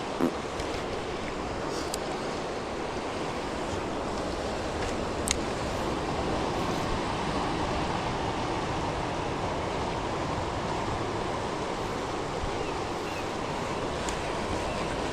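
Creek water rushing steadily over rocks, with a few faint clicks, the clearest about five seconds in.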